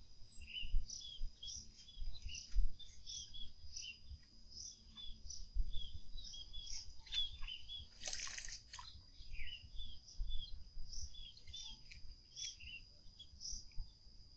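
Small birds chirping over and over in short notes, with a faint steady high whine underneath. About eight seconds in comes a brief splash as a green-billed malkoha dips into a shallow pond to bathe.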